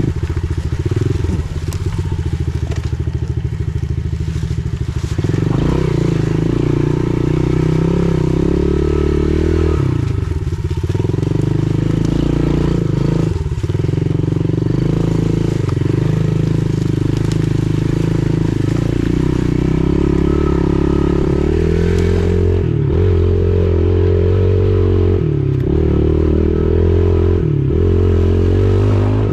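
Pit bike engine running as it is ridden, the revs rising and falling with the throttle and dropping off briefly several times.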